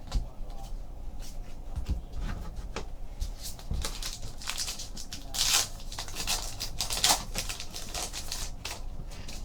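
Trading cards and pack wrappers being handled: a run of light clicks and rustles, with a louder rustle about five and a half seconds in and a sharp click about a second later.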